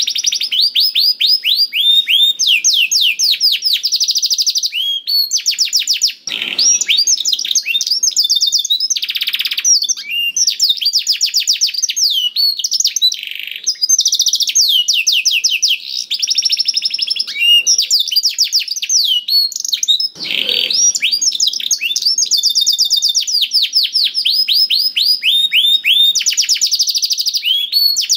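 Male canary singing continuously in fast trills of rapidly repeated sweeping notes, phrase after phrase with only brief breaks, plus a couple of harsher, lower notes in the song.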